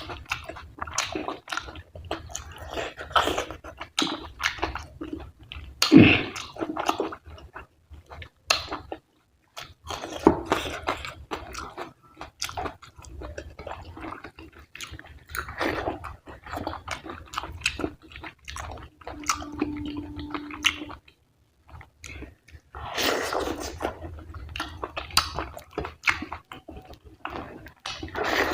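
Close-miked chewing and wet mouth sounds of someone eating fatty mutton curry with rice: irregular smacks, squishes and bites, with a brief low steady tone about two-thirds of the way through.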